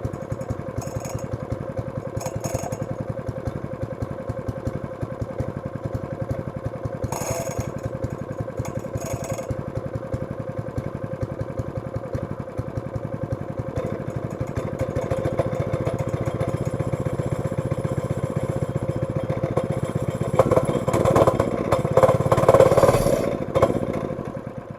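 Honda-engined Wacker plate compactor's small single-cylinder four-stroke engine running steadily. It gets louder from about halfway, runs louder and rougher for the last few seconds, then stops right at the end.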